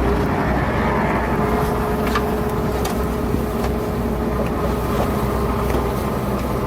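Heavy diesel engine of earthmoving machinery running steadily: a continuous low rumble with a steady whine over it.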